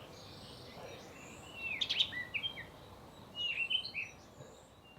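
Small birds chirping: short downward-sliding chirps in two bursts, one about one and a half seconds in and another about three and a half seconds in, over a faint steady background hiss.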